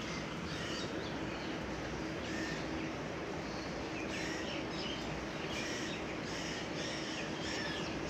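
Small birds chirping in short, repeated calls, busier in the second half, over a steady background hiss with a faint constant hum.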